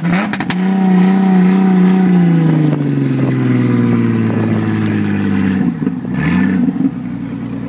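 2010 Ford Mustang's 4.0-litre V6 on its stock dual exhaust, revved up and held for about two seconds, then the revs fall slowly back. There is one more short blip of the throttle near the end before it settles to idle. The engine is still cold.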